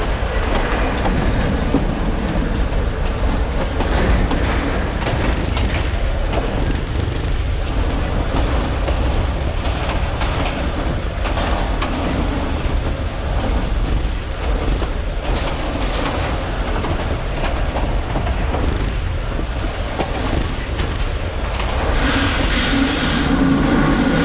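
Train wagons rolling past on the rails: a steady rumble with irregular clacking from the wheels and a few brief high wheel squeaks. A louder droning tone comes in near the end.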